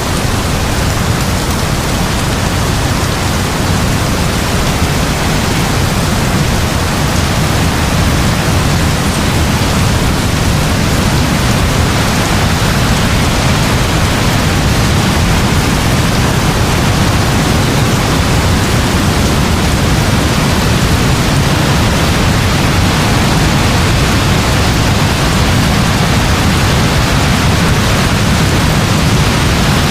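Heavy rain falling steadily: a dense, even hiss with a deep continuous rumble underneath.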